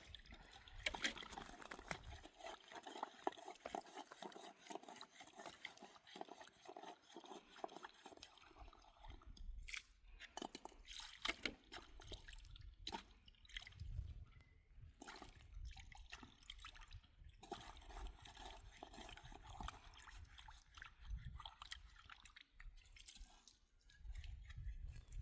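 Water being handled, sloshing and dripping, with scattered small clicks and knocks throughout.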